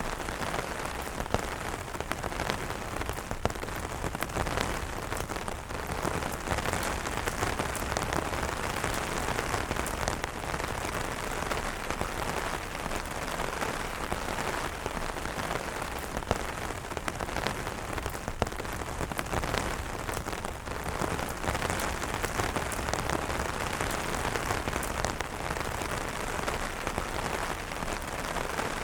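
Steady heavy rain falling on umbrellas: a dense, even hiss of drops with many individual drop hits ticking through it.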